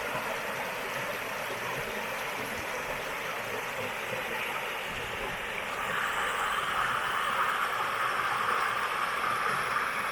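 River water flowing: a steady rushing that grows louder about six seconds in.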